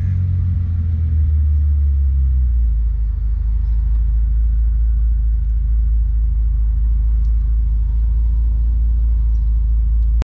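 Bentley Continental GTC's twin-turbo W12 engine idling, heard from the open cabin as a deep steady rumble, cutting off abruptly near the end.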